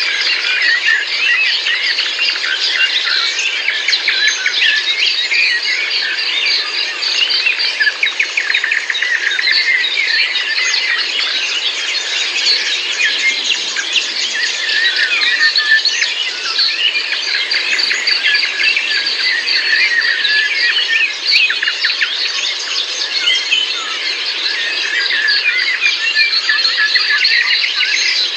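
Dense chorus of many small birds singing at once, with overlapping high chirps, trills and whistles.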